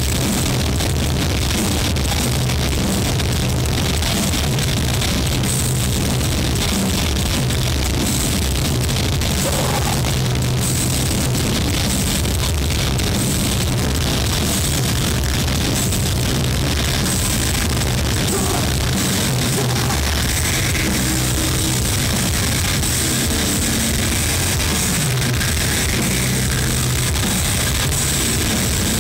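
Heavy metal band playing live, loud and distorted as heard through a camcorder's microphone in the crowd: distorted guitars, bass and drums.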